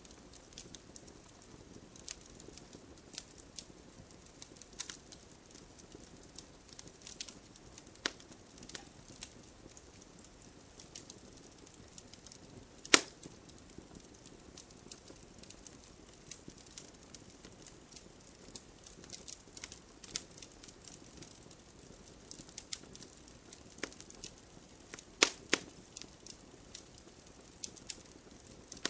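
Wood fire crackling: scattered irregular pops and snaps over a soft low rumble, with one sharp pop about thirteen seconds in and a few more near the end.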